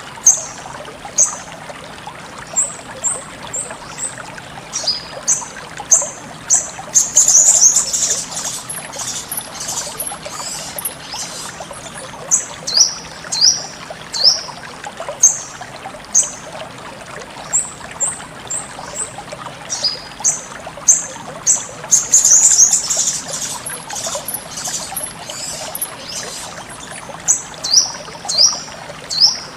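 Sogon songbird calling: short high-pitched chirps repeated every second or so, breaking twice into a busier burst of rapid, louder song, over a steady trickle of running water.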